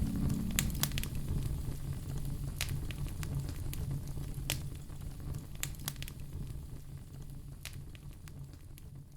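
Fire in a fireplace crackling, with irregular sharp pops over a steady low rumble, fading out gradually.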